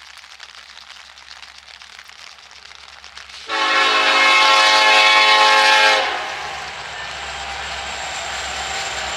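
A train's horn sounds one long blast of about two and a half seconds, a few seconds in, over a faint steady hiss; after it the train keeps up a steady rumble as it runs.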